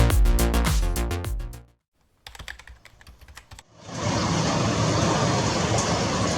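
Electronic background music fades out in the first two seconds, followed by a near-quiet gap with a few faint clicks. From about four seconds in, the steady roar of an airliner's jet engines at taxi takes over.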